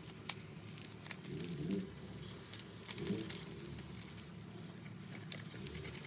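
Sponge rubbing cleanser on a metal shower head: an uneven light scrubbing with scattered soft clicks. Two short low wavering sounds come through, about one and a half and three seconds in.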